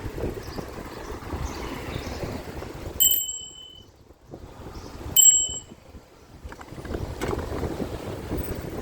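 Bicycle bell rung twice, about two seconds apart, each a single bright ding that fades quickly. Wind noise on the microphone is heard before the first ding.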